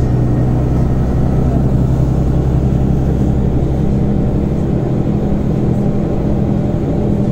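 Scania Omnicity city bus engine running steadily, heard from inside the passenger cabin.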